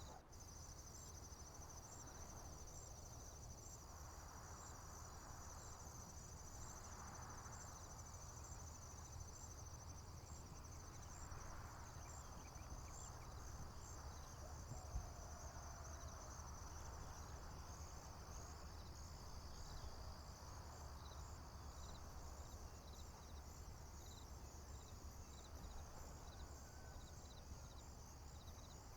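Crickets chirping in a faint, steady, high-pitched pulsing chorus, over a low rumble, with one sharp click about halfway through.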